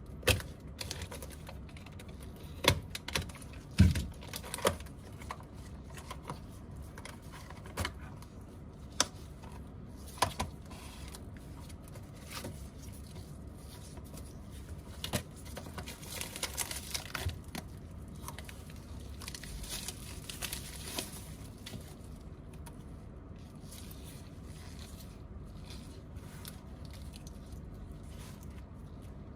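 Small hand-work noises of a phone repair: scattered sharp clicks and taps of parts and tools, loudest in the first few seconds, then a stretch of crinkling and scraping about halfway through.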